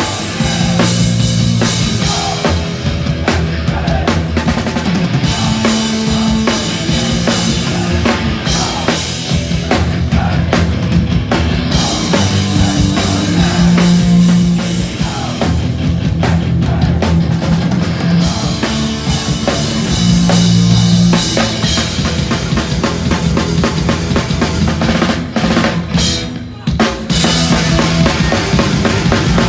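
Hardcore punk band playing live, loud, with the drum kit driving hard; the band breaks off briefly near the end and comes straight back in.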